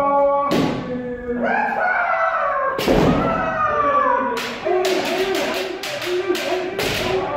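Kendo practice: loud drawn-out kiai shouts mixed with sharp cracks of bamboo shinai strikes and stamping feet. The strikes come singly at first, then in a quick run of several a second from about halfway through.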